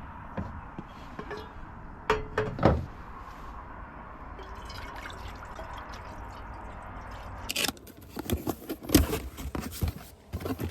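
Steady hiss of a pot of water heating on a camp stove, with a couple of sharp knocks a couple of seconds in. From about seven and a half seconds in, irregular crinkling and rustling of packaging takes over.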